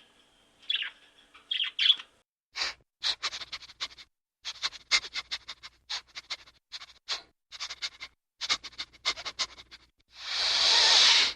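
A bird chirping in quick series of short, sharp calls, then a loud hissing burst of about a second and a half near the end that cuts off suddenly.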